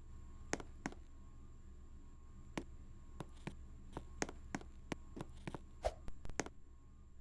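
A dozen or so short, irregularly spaced clicks and light taps over a steady low hum, the loudest about six seconds in.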